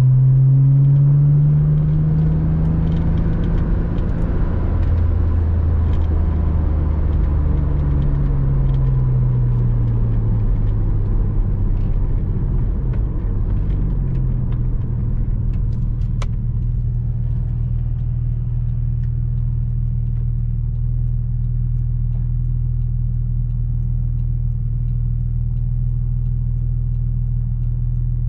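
Porsche Boxster 986's flat-six engine on the move. Its note climbs briefly, then falls over several seconds as the revs come down, and from about halfway through it holds a steady, even note.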